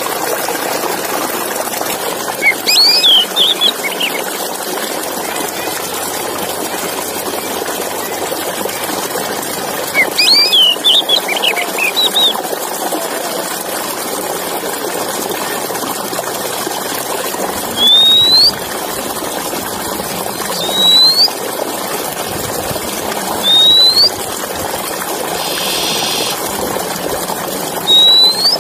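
Male Oriental magpie-robin (kacer) singing: two short bursts of fast, varied warbling notes, then a series of single rising whistles a few seconds apart, with a brief buzzy note near the end. A steady rushing hiss runs underneath.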